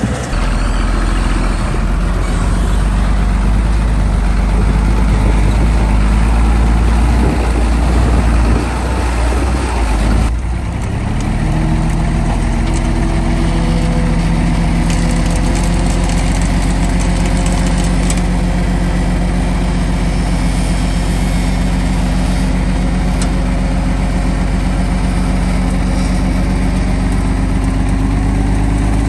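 Heavy diesel construction machine engine running hard with a rough, heavy rumble, then settling about ten seconds in to a steady, even idle.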